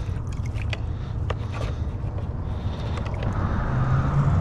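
Road traffic rumbling on a bridge overhead, a passing vehicle growing louder near the end, with a few light clicks.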